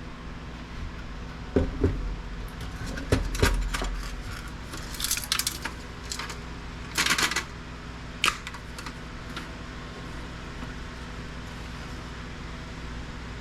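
Small metal parts and tools clinking and clattering on a workbench while electronic equipment is taken apart for scrap, in several short bursts over the first two-thirds, over a steady low hum.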